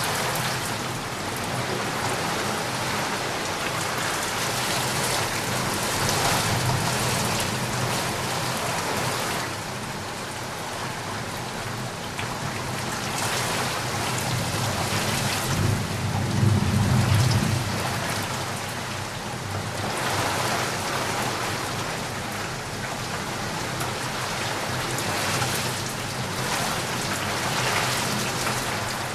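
Heavy rain falling steadily, its hiss swelling and easing a little, with a low rumble of thunder about halfway through.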